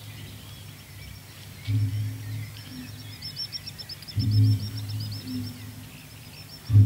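Small birds singing, with a rapid high trill of short repeated notes that grows busier about halfway through. A low, deep hum swells three times, about two and a half seconds apart, and is the loudest sound.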